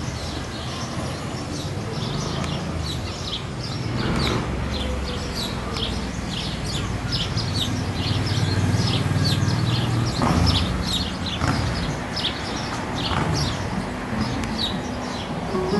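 Small birds chirping rapidly and repeatedly, a few chirps each second, over a low rumble of traffic.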